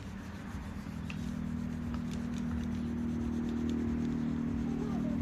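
Scratchy strokes of colour being rubbed onto paper, under a steady low hum that grows louder toward the end.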